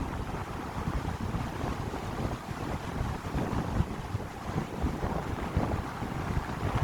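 Wind blowing through a pine grove, gusting and buffeting the microphone with a low rumble.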